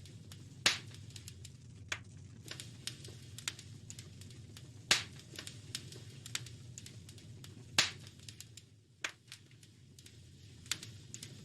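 Wood fire in a fireplace crackling, with irregular small pops and snaps and three louder pops, about a second in, near the middle and about three seconds later, over a low steady rumble.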